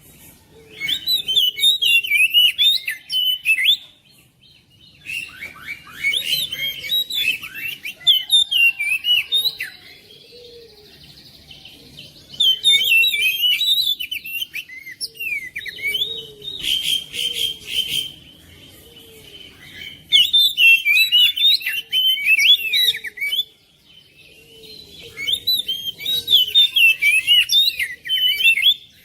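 Oriental magpie-robin singing: loud phrases of rapid, varied whistles and chirps, each a few seconds long with short pauses between. One phrase about halfway through is a buzzy rattle.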